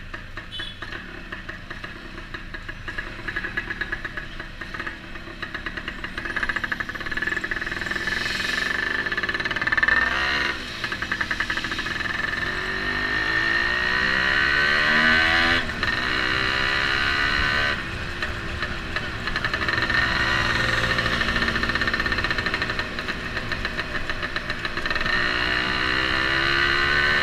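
Kawasaki HDX motorcycle engine running under way, quieter for the first few seconds, then louder and revving up. Its pitch climbs through the gears around the middle and again near the end, with brief drops between. It is being test-ridden after a repair for a slipping clutch.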